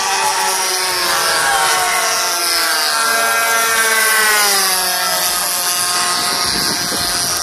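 RC warbird model airplane's DLE 20cc single-cylinder two-stroke gas engine flying past. Its buzzing note rises in pitch for the first few seconds, then drops steadily as the plane passes by.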